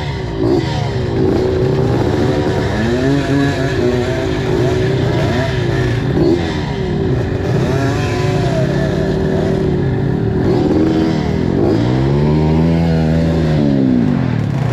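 Two-stroke dirt bike engine being ridden, its pitch rising and falling again and again as the throttle is opened and shut, with a longer drop and climb near the end.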